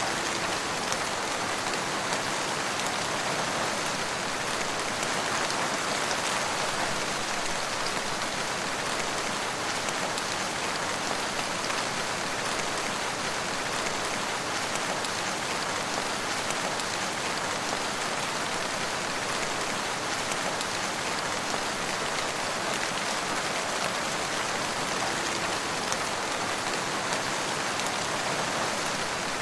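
Steady rain falling, an even continuous hiss of drops with no breaks or distinct events.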